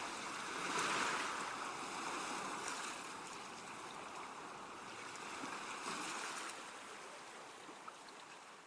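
Ocean waves washing onto a shore, with surges about a second in and again about six seconds in, then gradually fading out near the end.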